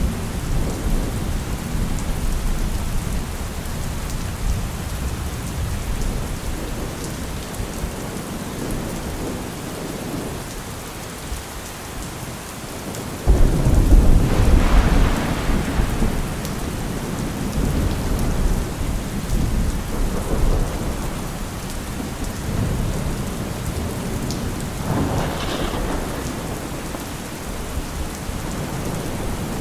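Heavy rain pouring steadily with rolling thunder; about thirteen seconds in a loud thunderclap breaks and rumbles on for several seconds, and a weaker roll of thunder follows near the end.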